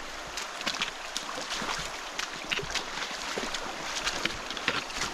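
Feet wading through a shallow river, with irregular splashes over the steady rush of the flowing water.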